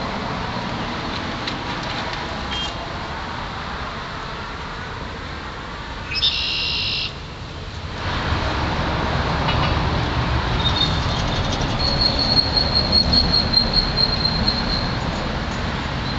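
Steady traffic and street noise, with a short high beep lasting about a second some six seconds in. The noise grows louder after that, and a rapid high pulsing tone runs for several seconds near the end.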